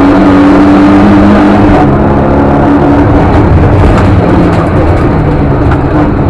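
Lada 2101 rally car's four-cylinder engine running hard under load, heard loud from inside the stripped cabin, its note dropping about two seconds in before pulling on again.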